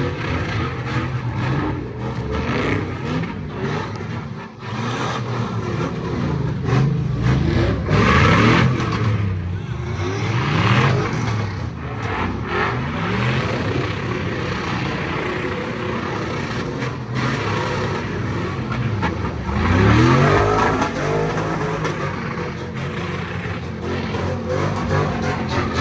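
Car engines revving hard at a sideshow, the pitch climbing and dropping again and again as the cars are pushed, loudest about eight, eleven and twenty seconds in.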